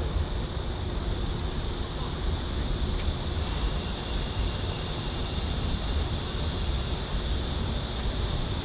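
An insect, likely a cricket, chirping in short groups of about four quick pulses, a group roughly every second, over a steady low rumble.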